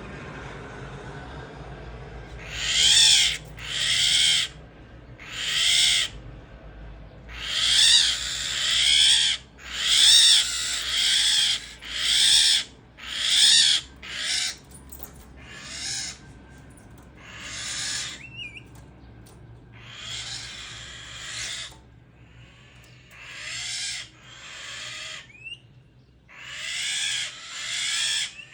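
A bird giving a long series of harsh, rasping calls, each about a second long, repeated every second or two, loudest around the middle and somewhat fainter towards the end.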